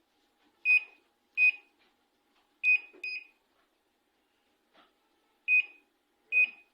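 Microwave oven's control-panel beeper giving six short, high-pitched beeps at uneven intervals, as after keypad presses, with a faint steady hum underneath.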